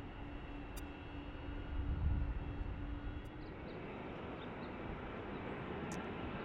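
Jet airliner engine noise heard from a distance: a steady rumble that swells around two seconds in, with a faint steady hum that stops about three and a half seconds in.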